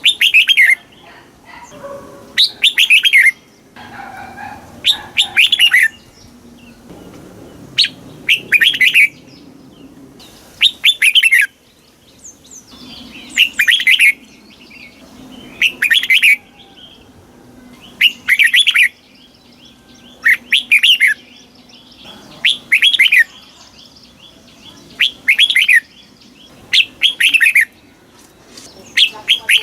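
Red-whiskered bulbul singing: short, bright, sweeping phrases repeated about every two seconds.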